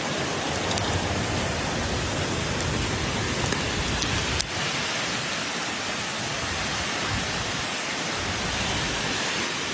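Heavy rain pouring down in a storm, a steady hiss with a brief break about four and a half seconds in.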